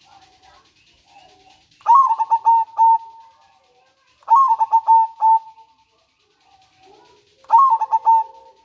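Zebra dove (perkutut) singing three phrases, about two and a half seconds apart. Each is a quick stuttering run of short notes that ends in a drawn-out coo.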